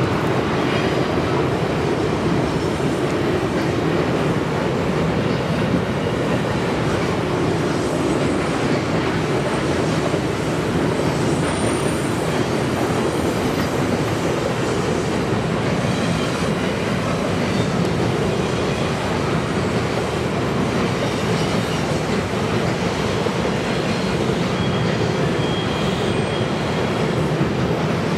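Loaded coal hopper cars of a freight train rolling across a steel arch bridge: a steady, unbroken rumble of wheels on rails. Faint, brief high wheel squeals come about halfway through and again near the end.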